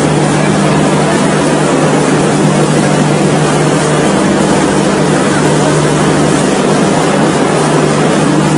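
Steady, loud running noise of a moving train, with a constant low hum underneath.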